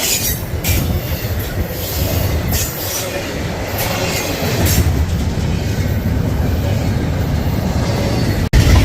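Freight train rolling past, its steel wheels running on the rails with a string of sharp clicks over the rail joints. The sound drops out for an instant near the end.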